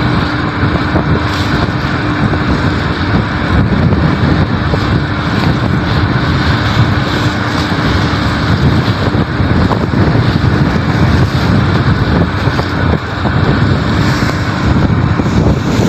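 Strong wind buffeting the microphone, a dense rushing noise, with a steady hum under it that stops about halfway through.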